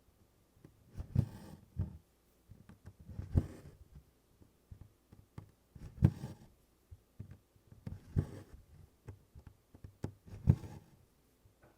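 Needle and cotton floss being drawn through 24-count cross-stitch cloth, one tent stitch at a time: a soft thump with a brief rasp of thread, five times about two seconds apart.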